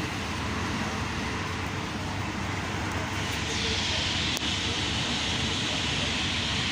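Train running, with a steady rumbling ride noise. About three seconds in a higher hiss joins and holds, and there is a single sharp click shortly after.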